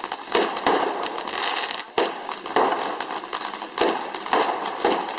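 Fireworks going off: a dense run of sharp cracks and crackling, with louder bangs every half second to a second.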